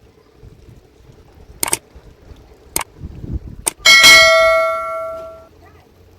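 Three sharp clicks, then a single struck metallic ring like a bell, the loudest thing here, that fades away over about a second and a half.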